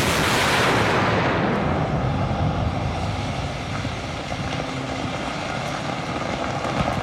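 Aircraft engines droning: the sound starts suddenly and loud, its hiss fading over the first second or two into a steady rumble.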